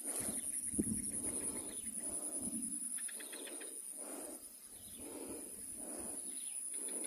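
Outdoor wetland ambience: a steady high-pitched hum, with an animal's low calls repeated about twice a second and a brief fast trill about three seconds in.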